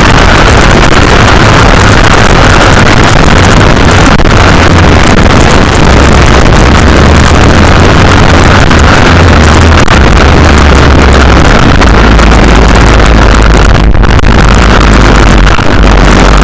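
Mini motocross bike engine running loud, with wind noise on the microphone.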